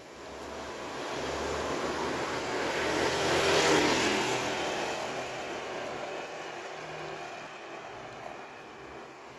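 A motor vehicle passing close by: engine hum and tyre noise build up, peak about three and a half seconds in, then fade away.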